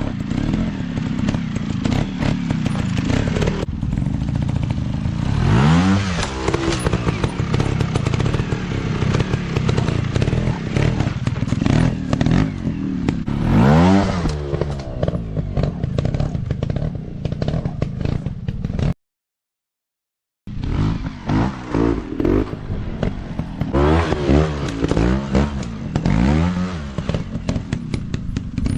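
Dirt bike engines revving hard, the pitch sweeping up and falling back again and again, with many sharp knocks and clatter. The sound cuts out completely for about a second and a half around two-thirds of the way through.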